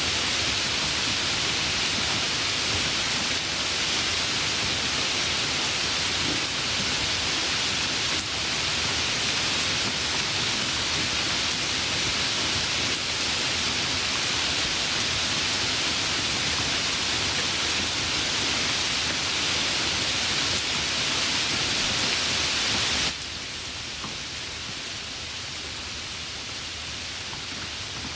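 Light rain falling, an even hiss with no single drops standing out. Near the end it drops suddenly to a quieter level.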